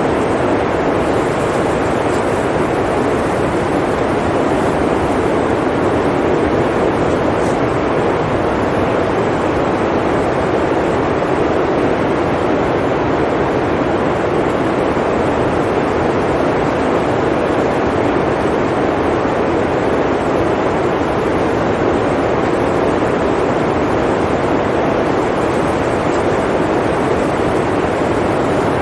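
Steady blizzard wind, an even, unbroken rush of noise with no gusts or other sounds standing out.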